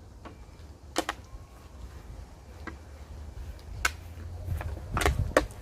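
Scattered sharp clicks and knocks over a low rumble, the loudest about a second in and near four seconds in, with a few more close together near the end.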